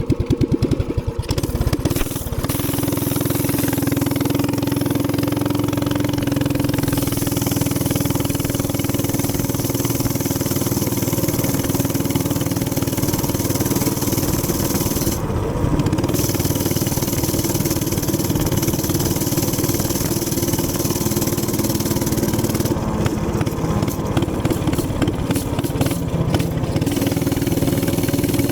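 Warmed-up gas minibike engine idling with distinct separate firing beats, then about two seconds in opening up into a steady, continuous run under way, with a hiss over the engine sound.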